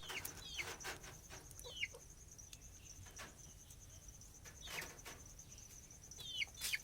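Short falling bird chirps, a few at a time at irregular intervals, over a steady pulsing insect buzz.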